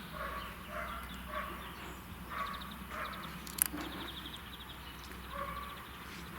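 Outdoor rural ambience with repeated short animal calls, spaced irregularly, and a couple of quick rattling chirps about halfway through.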